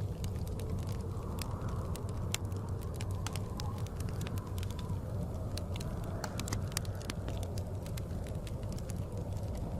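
Wood fire crackling, with many sharp irregular pops, over a steady low rumble of blizzard wind.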